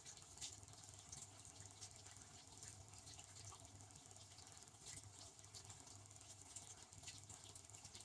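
Benchtop dishwasher running: a low pump hum with water spraying and pattering against the inside of the tub in irregular small splashes.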